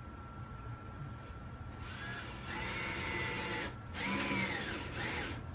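Cordless drill/driver running in three bursts from about two seconds in, its motor whine rising and falling in pitch as it drives a screw into a closet rod bracket.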